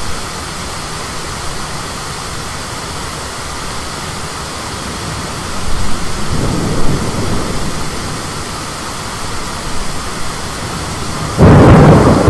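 Thunderstorm: steady rain and wind noise, a low rumble of thunder about six seconds in, and a sudden, much louder peal of thunder near the end.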